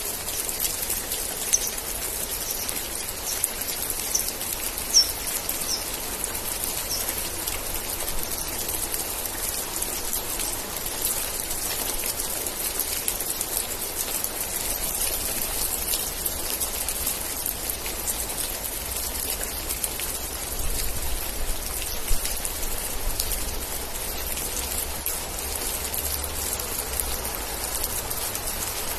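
Steady rain, with individual drops ticking close by over an even hiss. In the first several seconds a run of about eight short, high chirps sounds over the rain.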